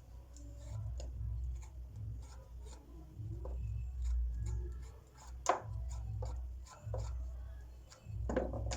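Hands cleaning fresh mushrooms: light rubbing and scraping with scattered small clicks and taps, over a steady low rumble. A sharper tick comes about five and a half seconds in.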